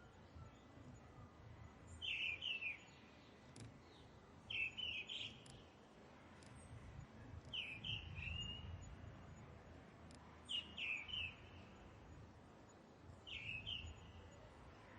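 A bird repeating a short chirping phrase five times, about once every three seconds, over faint low background noise.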